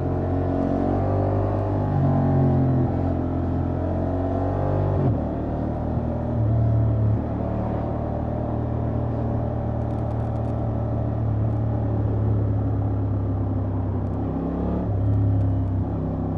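Honda XL750 Transalp's parallel-twin engine with stock exhaust, heard from the rider's seat under way. The revs climb and then drop sharply about five seconds in, as on a gear change or closing the throttle. It then runs steadily at lower revs, with a short rise in revs near the end.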